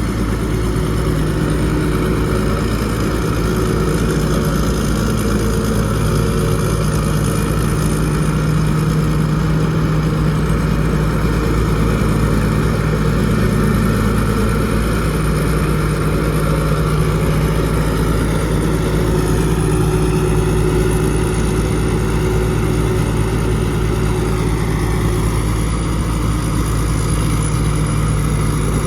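Rice combine harvester's diesel engine and threshing machinery running steadily under load, with a high mechanical whine over the engine note. The pitch sags and recovers briefly about two-thirds of the way through.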